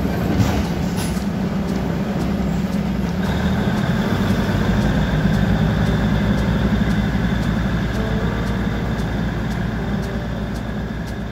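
Diesel train running steadily, heard from inside a carriage, with a low engine hum and a high steady whine that joins about three seconds in.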